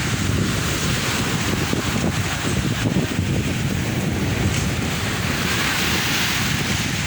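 Sea surf: waves washing in continuously, with a swell near the end, and wind buffeting the microphone with a low rumble.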